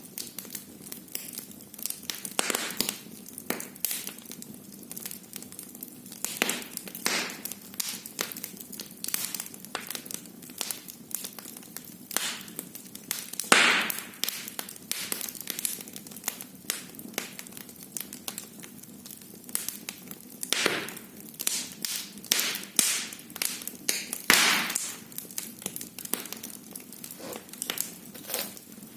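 Wood fire crackling in a fireplace: a steady run of small snaps and clicks over a faint hiss, with a few louder pops, about halfway through and again near the end.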